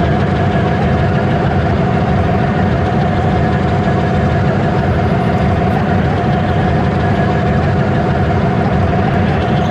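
A train running with a steady loud rumble and a constant hum that does not change.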